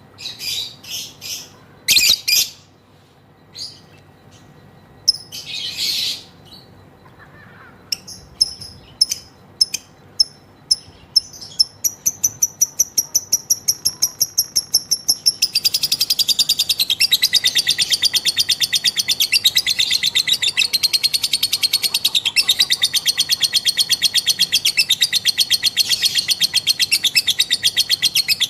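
Female lovebird calling: a few scattered high chirps, then a string of sharp notes that speeds up and, about halfway through, runs into a long, fast, unbroken chatter, the long 'ngekek' trill.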